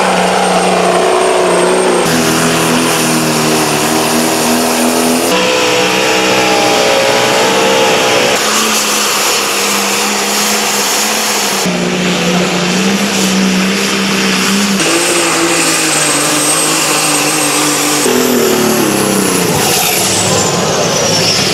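Pulling vehicles' engines running at high power under load, in a string of short segments that change abruptly about every three seconds. The pitch holds or rises within each segment, and falls near the end as an engine winds down.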